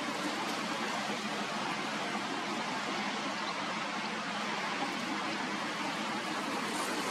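Strong wind rushing steadily, with a faint low hum underneath.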